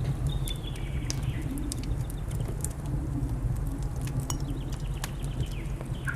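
Wood fire crackling with scattered sharp pops over a steady low rumble, while birds chirp: a run of calls in the first second or so and another just at the end.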